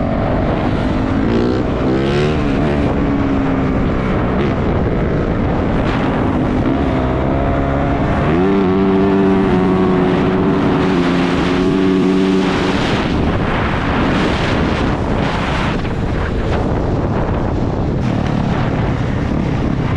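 450cc four-stroke dirt bike engine being ridden, its pitch rising and falling as the throttle opens and closes, then held steady for a few seconds in the middle, with wind noise over the microphone.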